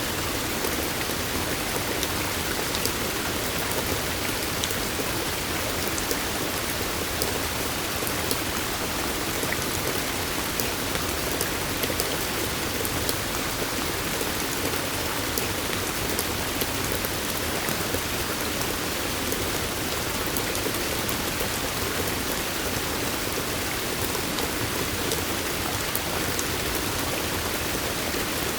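Steady rain falling in forest, a constant hiss of water with many small drop ticks scattered through it.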